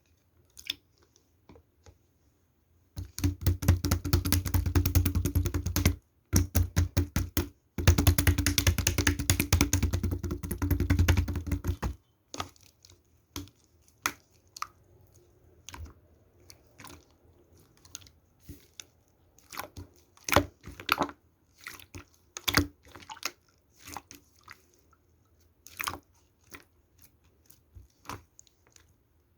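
Slime being squeezed and pressed by hand. Two long runs of fast, dense crackling clicks come first, followed by scattered single squishy pops and clicks.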